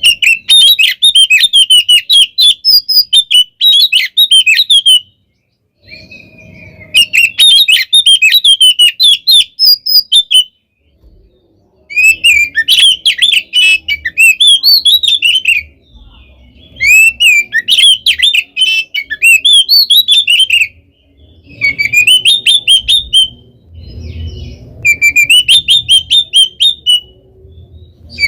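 Oriental magpie-robin (kacer) singing loudly in rapid phrases of whistles and chatter, in bouts of a few seconds broken by short pauses. It is a bird in full, agitated fighting song.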